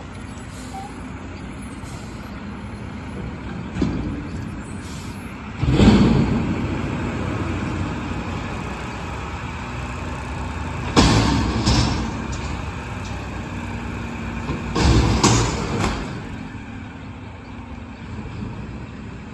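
Garbage truck engine running steadily, with three loud, sudden bursts of noise: about a third of the way in, just past halfway, and about three-quarters through.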